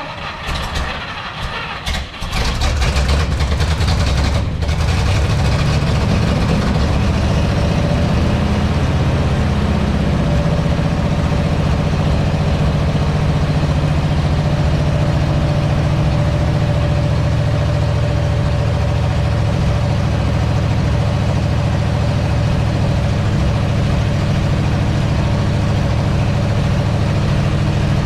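Ford C-850 truck's engine cranking for about two seconds, then catching and settling into a steady idle.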